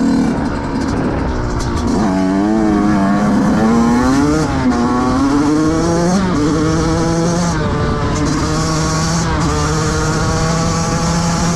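2005 Yamaha YZ 125's two-stroke single-cylinder engine revving, its pitch rising and falling several times, then holding a steady pitch from about halfway through.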